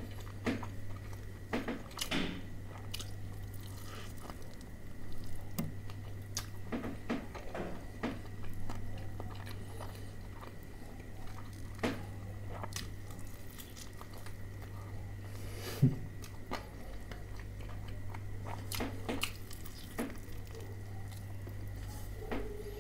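Close-up chewing and biting of crispy fried chicken: wet mouth sounds broken by scattered sharp crunches of the breading, over a steady low hum.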